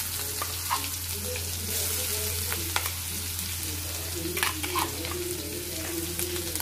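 Ground onion-and-coconut masala paste sizzling as it drops into hot oil and chilli powder in a kadhai, a steady frying hiss. A few sharp clicks come from the spoon scraping the paste in.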